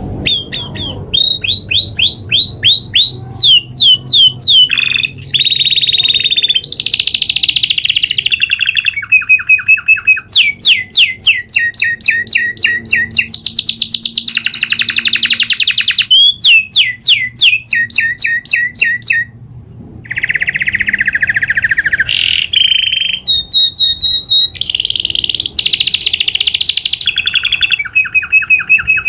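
Domestic canary singing a long rolling song: fast trills of rapidly repeated notes that switch to a new pitch and pattern every second or two. There is one brief pause about two-thirds of the way through.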